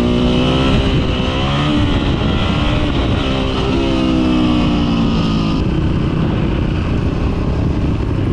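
Supermoto dirt bike engine running under way on a paved road, its note rising and falling with throttle and gear changes, over steady wind rush on the bike-mounted microphone. The sound changes abruptly about two-thirds of the way through, losing its hiss.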